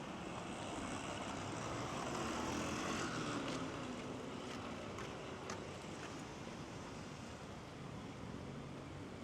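Steady outdoor background noise, swelling slightly about two to three seconds in, with a few faint light clicks through the middle.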